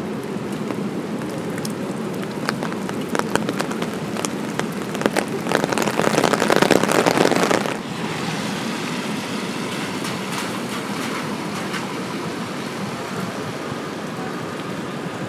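Steady rain falling on a city street, with scattered sharp drip taps. A louder splashing rush of water sets in about halfway through and cuts off suddenly after about two seconds.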